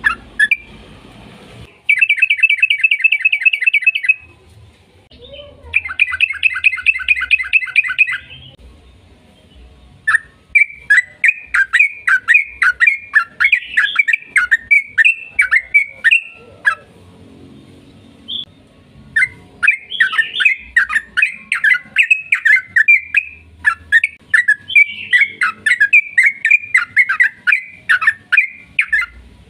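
Yellow-vented bulbul (trucukan) singing: two short, rapid trills of evenly repeated notes, then long runs of bubbly, chattering phrases with brief pauses between.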